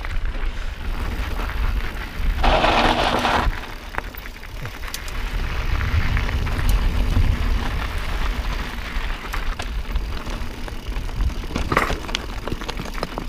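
A mountain bike rolling fast over a rocky dirt trail: tyres crunching on gravel, the bike rattling over stones and wind buffeting the action camera's microphone. A louder rush of noise comes about two and a half seconds in, with a shorter one near the end.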